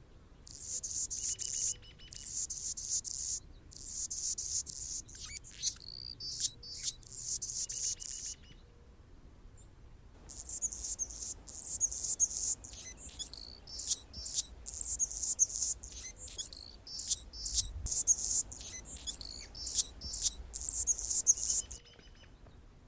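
Male Anna's hummingbird singing: high, scratchy song phrases with quick chips, in two bouts separated by a pause of about two seconds near the middle.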